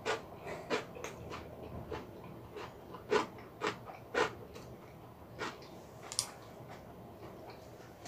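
Close-miked chewing of a mouthful of kimchi with fried egg: soft, wet mouth clicks and smacks at irregular intervals, a few of them louder, about three to four seconds in.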